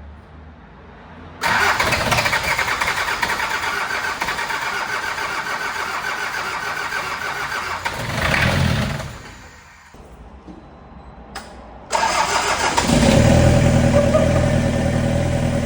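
Toyota Hilux 3L four-cylinder diesel being cranked on the starter for about eight seconds without catching, then cranked again and firing about a second later into a steady run. This is its first start after an injector pump seizure threw the timing and let the valves hit the pistons, with a new pump fitted.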